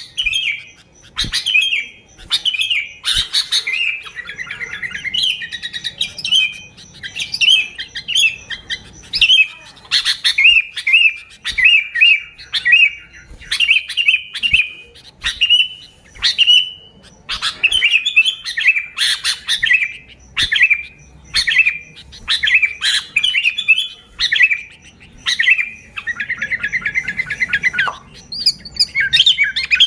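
Sooty-headed bulbul (kutilang) calling over and over: short, bubbly whistled phrases following one another about every half second to a second, with a few brief clicks among them.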